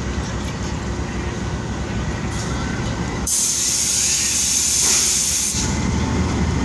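GE U20C diesel-electric locomotive rumbling as the train departs, with a sudden loud hiss of released air lasting about two seconds midway, then the rumble again.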